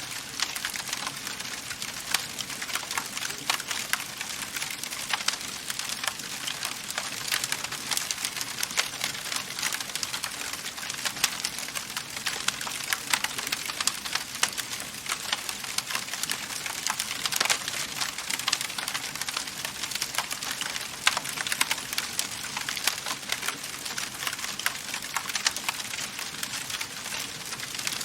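Wood fire crackling in a fireplace: a dense, irregular stream of small pops and snaps over a soft steady hiss.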